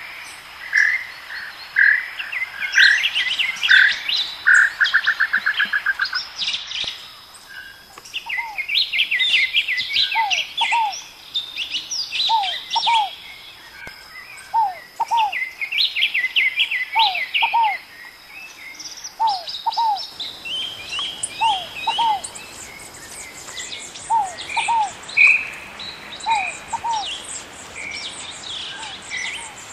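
Several birds calling and singing together, with many quick high chirps and trills. A short rapid trill comes about five seconds in, and from about eight seconds on one bird repeats a lower pair of down-slurred notes roughly every second and a half.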